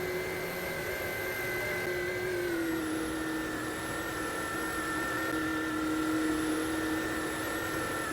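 Washing machine running a spin, its motor and drum giving a steady whine over a rushing hiss; the pitch dips slightly about two and a half seconds in and then holds.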